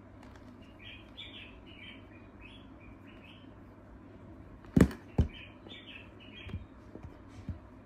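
Birds chirping in short runs of quick calls. Two sharp knocks a little past halfway are the loudest sounds, with a few light clicks after them, from the phone being handled.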